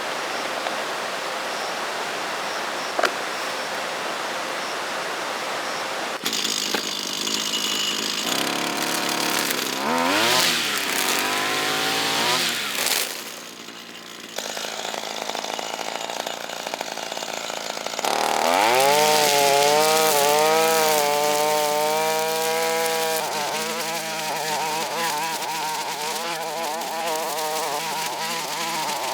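Rushing water for the first several seconds. Then a small two-stroke engine revs up and drops back a couple of times, and from about two-thirds of the way in it runs at high revs with a wavering pitch, as if working under load.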